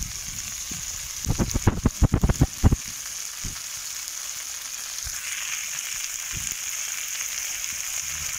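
Manathakkali (black nightshade) leaves sizzling as they fry in oil in a blackened pan, a steady hiss that swells a little past the middle. A quick run of knocks between about one and three seconds in is the loudest part.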